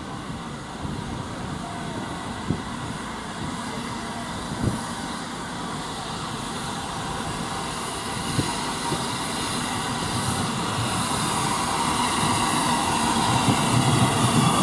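Train running on rails, getting steadily louder as it gathers speed, with a few single knocks along the way.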